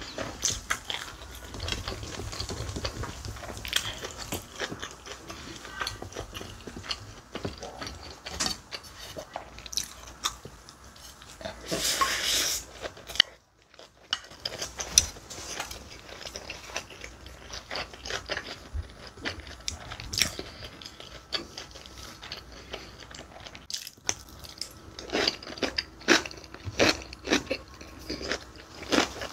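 Close-miked chewing of a large mouthful of bibimbap (rice mixed with seasoned vegetables and gochujang): wet mouth clicks and small crunches. There is a brief rush of noise about twelve seconds in.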